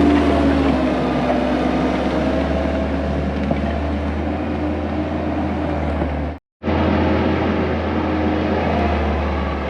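Skid steer engine running steadily under load, a continuous low drone. The sound cuts out completely for a split second about six and a half seconds in.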